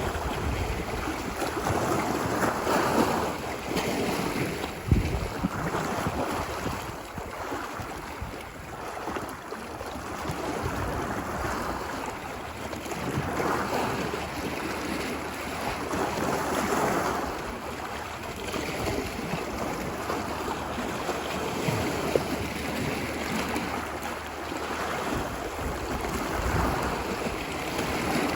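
Ocean waves breaking and washing up a beach, the surf swelling and fading every few seconds, with wind rumbling on the microphone.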